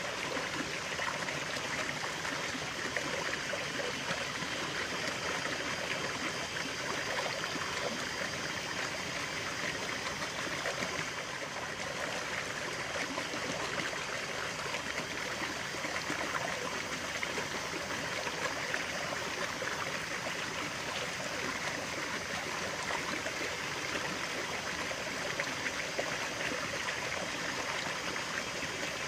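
Running water: a stream flowing and trickling, a steady, even rush with bubbling.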